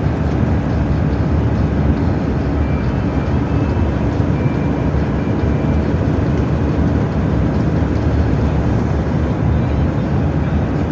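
Truck on the move: steady engine and road noise.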